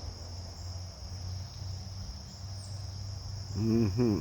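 Steady high-pitched insect chorus, a continuous drone. A man's voice comes in briefly near the end.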